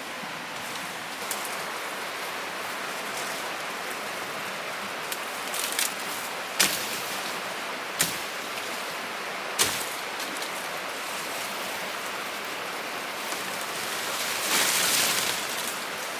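Steady hiss of running water, with three sharp knocks about a second and a half apart near the middle and a louder swell of hiss near the end.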